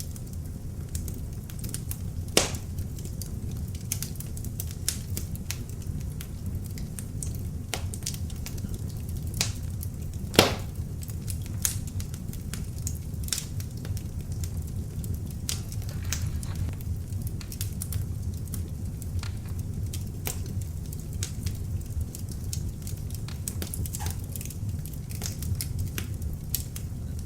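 Beech-wood log fire burning in an open fireplace: a steady low rumble of the flames with frequent irregular crackles and snaps, two louder pops, one about two seconds in and one about ten seconds in.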